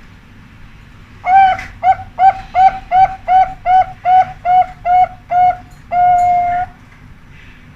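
Zebra dove (perkutut) singing: an opening note, a run of about ten short clipped coos at roughly three a second, then one long held final note.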